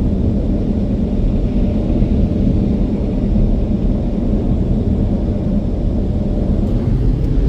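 Car wash blower dryers running steadily: a loud, even low rumble heard from inside the car.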